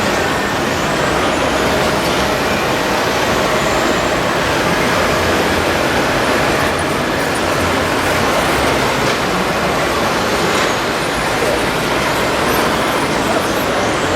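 Scale RC model of a Komatsu D65PX bulldozer working, giving a loud, steady vehicle-like running noise.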